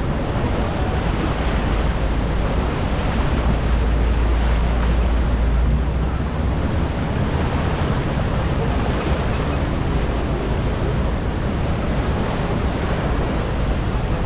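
Roar of the Rhine Falls: a steady, loud rush of falling water, with wind buffeting the microphone in a low rumble that swells from about four to six seconds in.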